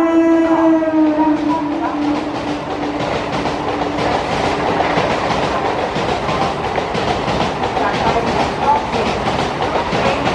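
Electric train's horn held as the train passes, dropping slightly in pitch and fading out about three seconds in. It gives way to a steady clatter of a train running through the station at speed, wheels rattling over the rail joints.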